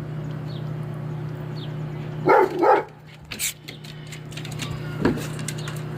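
A dog barking twice in quick succession about two seconds in, with a shorter sharp sound near the end, over a steady low hum.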